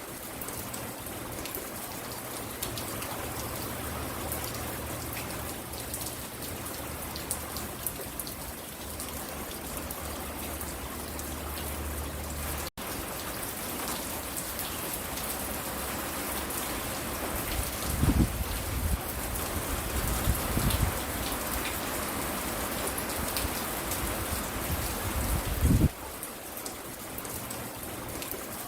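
Steady rain falling, an even hiss with many small drips and drops pattering. A few short, low thumps in the second half, and a momentary dropout about halfway.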